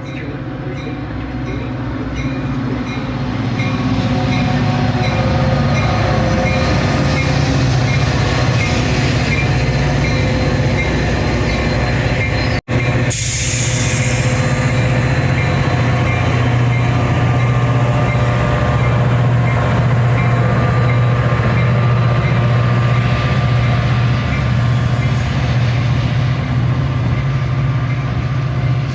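Metra commuter train's diesel locomotive running, with a steady low engine drone that grows louder over the first few seconds and then holds. About thirteen seconds in the sound cuts out for an instant, followed by a short burst of hiss.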